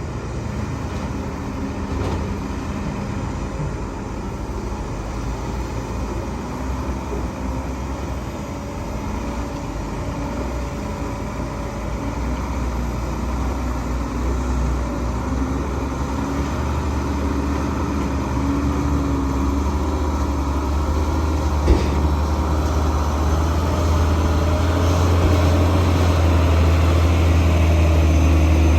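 Heavy diesel machinery running steadily, its low engine hum growing louder through the second half, with a single sharp knock about 22 seconds in.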